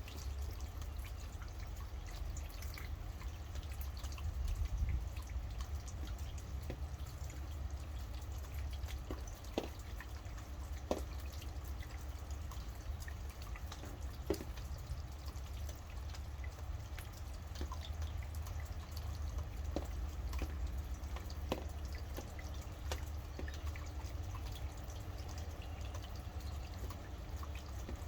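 Rain dripping steadily, with single drops tapping sharply now and then over a constant low rumble and patter.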